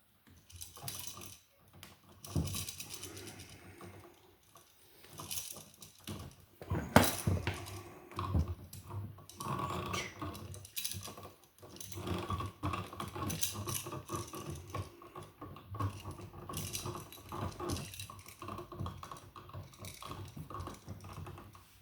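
Small irregular clicks, taps and scraping of hands and a hand tool working a bare copper ground wire onto a wall receptacle's green ground screw, with one sharper knock about seven seconds in.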